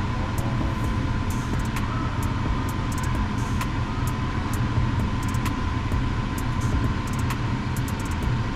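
Steady low rumble with a faint constant tone, like a running fan or motor, with scattered faint ticks over it.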